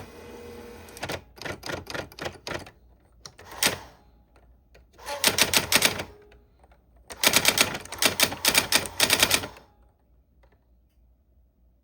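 Manual typewriter being typed on: runs of rapid, sharp key strikes separated by short pauses, the longest run lasting about two seconds. The typing stops about ten seconds in.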